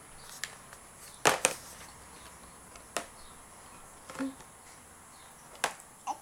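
A few sharp taps and clicks, two in quick succession about a second in, then single ones near three and five and a half seconds, with a short faint vocal sound around four seconds.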